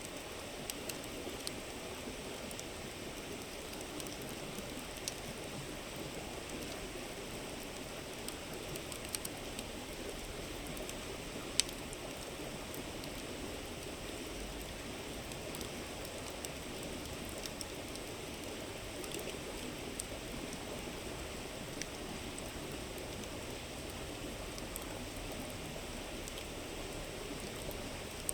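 River flowing steadily, with a wood campfire crackling over it in scattered sharp pops, one louder than the rest partway through.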